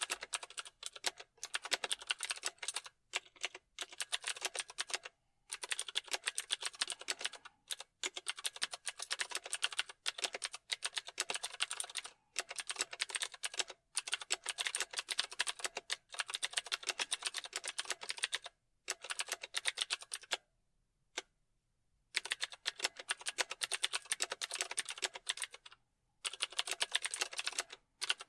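Typing on a computer keyboard: fast runs of key clicks in bursts of a second or a few seconds, broken by short pauses, with a single stray keystroke in one gap.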